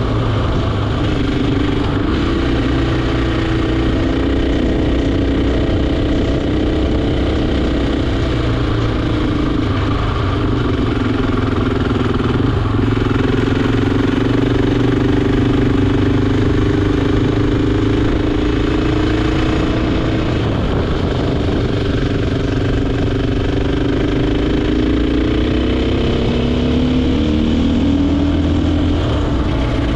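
KTM EXC 450's single-cylinder four-stroke engine running under way, its note rising and falling with the throttle through the bends and climbing again near the end as the bike accelerates.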